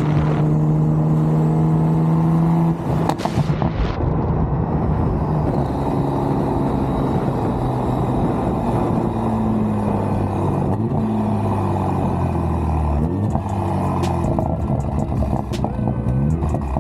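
Car engine and exhaust under way: holding steady revs, then lifting off about three seconds in with a few sharp crackles, after which the revs rise and fall through gear changes and climb again twice near the end.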